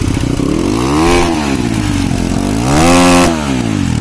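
Crossfire GR7 250 dirt bike's single-cylinder engine revved twice through its exhaust: the pitch climbs to a peak about a second in, drops back, then climbs higher and holds briefly near the end before falling toward idle.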